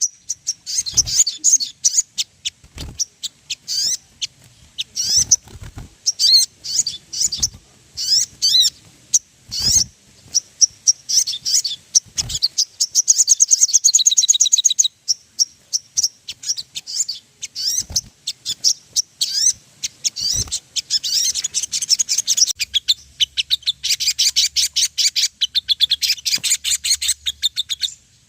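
Sogon birds singing: rapid, high-pitched chirps and trills, with stretches of very fast trilling near the middle and the last few seconds. A few sharp clicks or knocks cut through the song.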